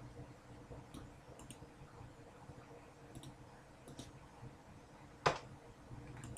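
A few faint, scattered light clicks, with one louder, sharper click about five seconds in.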